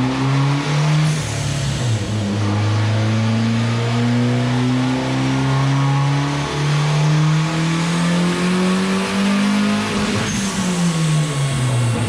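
Turbocharged Honda D15B four-cylinder engine pulling at full throttle on a chassis dyno: the revs climb slowly and steadily for about eight seconds, then drop away near the end as the throttle is closed after the pull.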